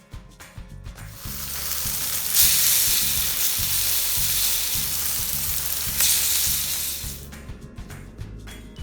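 Steak sizzling loudly in an iron frying pan. The sizzle swells in about a second in and fades away near the end, over background music with a steady beat.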